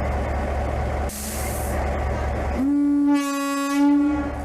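Train air horn sounding one long, steady blast of about a second and a half over a steady engine rumble, after a short burst of hissing air about a second in.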